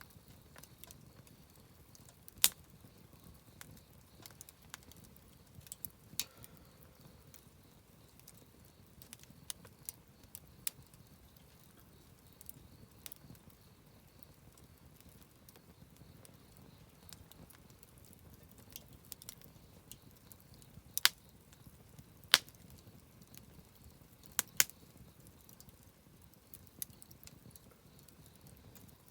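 Wood campfire crackling: scattered small cracks with a few sharp pops, the loudest about two seconds in and a cluster between twenty-one and twenty-five seconds.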